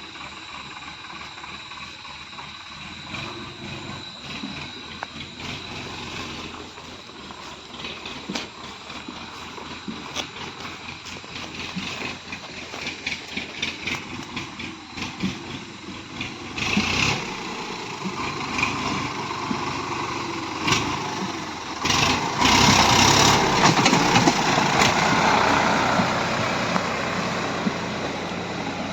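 DI 47 tractor's diesel engine running, with rattling knocks, while it pulls a cultivator carrying about 1000 kg. It grows much louder past the middle, is loudest about three-quarters of the way through, then eases slightly.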